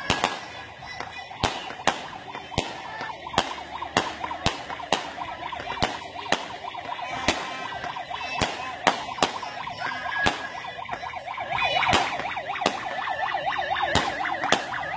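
Fireworks going off, with sharp bangs about twice a second over a wavering, siren-like whine that grows louder about two-thirds of the way in.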